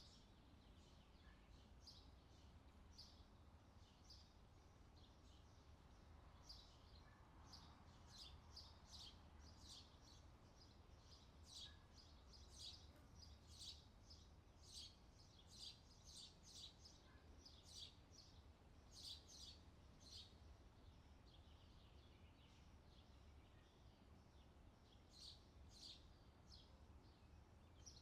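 Faint outdoor summer ambience: small birds chirping over and over in short high calls, thickest through the middle, over a low steady background rumble.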